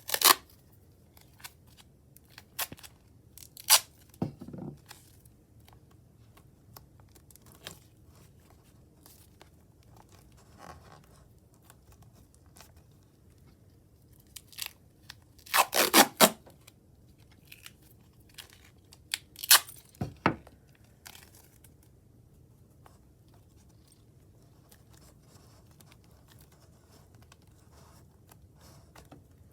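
Adhesive tape being pulled off the roll and torn while it is wrapped around the joined necks of two plastic bottles, in short, sharp rips with quiet gaps between; the loudest rips come about halfway through, and the last third is nearly quiet.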